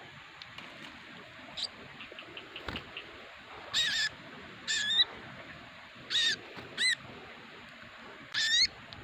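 A small bird calling: five short calls with a bending pitch, spread over several seconds. Faint quick ticking notes come before them.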